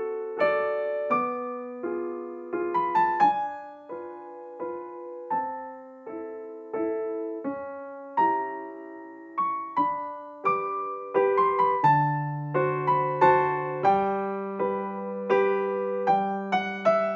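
Background piano music: a gentle melody of single struck notes, the notes coming faster and with bass notes added about twelve seconds in.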